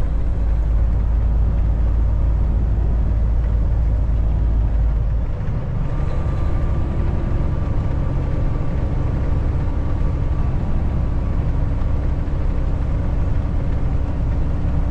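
Kenworth T680 semi truck's engine and road noise while driving, a loud steady low drone whose note changes about five seconds in, where the deepest rumble drops away and a steadier, higher engine tone takes over.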